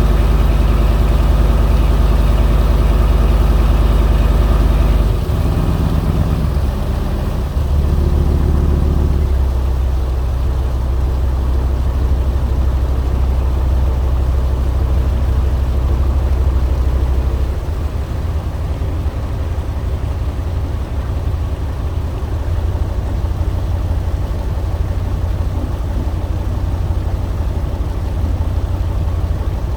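Boat engine running steadily and loudly. Its note drops about five seconds in, comes back up briefly around eight seconds, and settles lower and rougher after about seventeen seconds.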